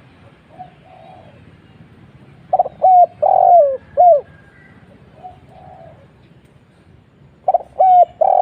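Spotted dove (tekukur) cooing in a deep, full voice: soft low notes, then a loud phrase of four coos about two and a half seconds in, repeated near the end, the last two notes of each phrase sliding down.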